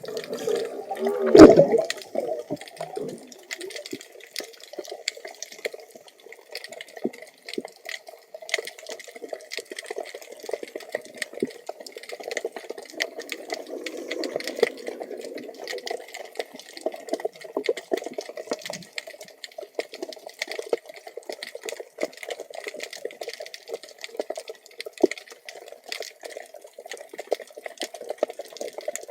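Underwater sound heard through a camera housing: a steady, muffled water noise with many scattered clicks and crackles, and one loud burst about a second and a half in.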